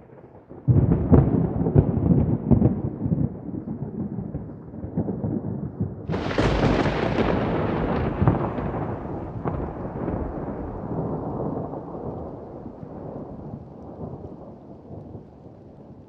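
Thunder: a loud rumbling clap breaks about a second in, then a second, sharper crack about six seconds in rolls on and slowly fades away.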